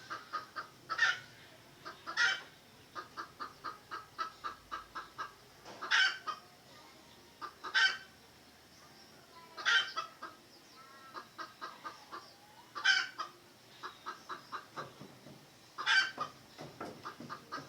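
Red junglefowl clucking in quick runs of short notes, about five a second, with louder sharp calls breaking in every two or three seconds.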